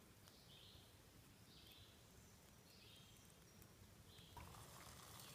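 Faint woodland ambience: a bird repeats a short high call about every second and a half. A faint hiss joins about four seconds in.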